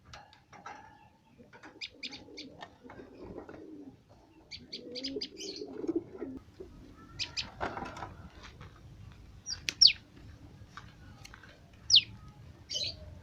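Small cage birds chirping: quick clusters of high notes, then single sharp calls sweeping downward about ten and twelve seconds in, the loudest sounds here. In between, rustling and knocking from handling the cage, over a faint steady hum.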